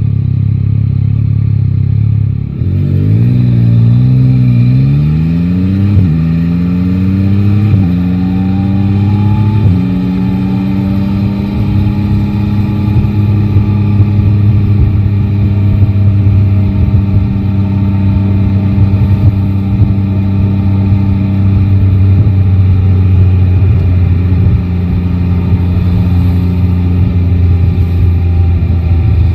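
Yamaha Tracer 9 GT motorcycle's three-cylinder engine idling steadily, then pulling away about two and a half seconds in and accelerating through four upshifts, the pitch rising and dropping back at each shift. From about ten seconds in it settles into steady cruising.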